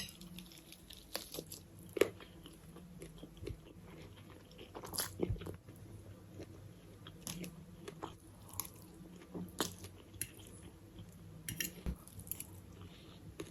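A person chewing food close to the microphone, with scattered soft crunches and mouth clicks over a faint steady hum.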